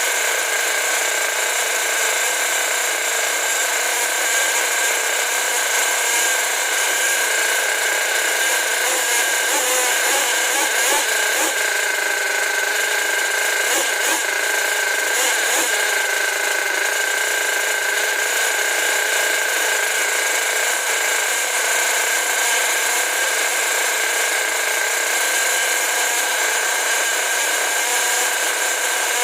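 Rebuilt Force .32 two-stroke nitro glow engine running at a steady high speed during break-in, a loud, even, high-pitched whine.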